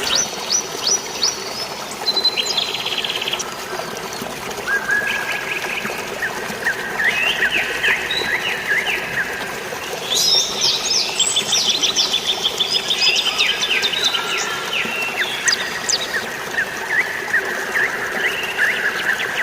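Several birds chirping and singing at once, with quick runs of repeated notes and trills that overlap and grow busiest about halfway through, over a steady wash of flowing water.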